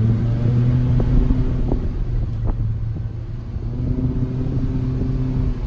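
Mitsubishi Lancer's four-cylinder engine running through a straight-through exhaust with the muffler and resonator deleted: a steady low drone that dips slightly about three seconds in.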